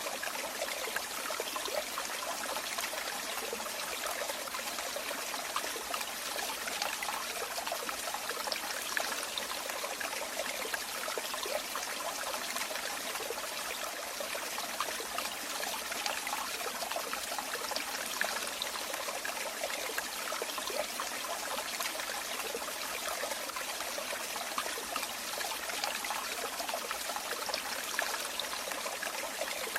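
Running water trickling and splashing steadily: a continuous bright babble of small splashes, with little depth to it.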